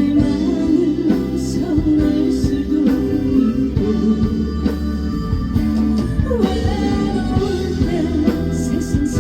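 Live band music for a trot song, with a woman singing the melody over drums and guitar.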